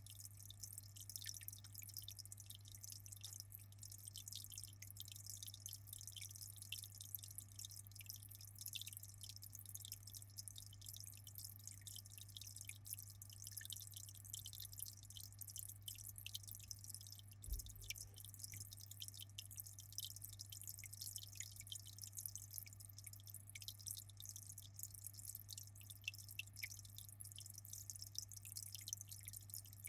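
Aquarium water trickling and dripping steadily in a fine, even patter, over a constant low hum. Faint.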